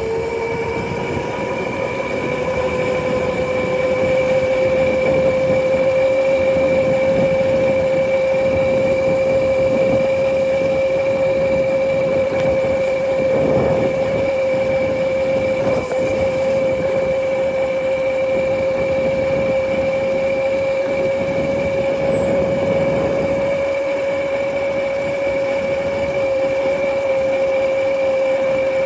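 Motorcycle engine running steadily while riding, its pitch rising over the first few seconds as it speeds up and then holding even, with a low rush of wind beneath it.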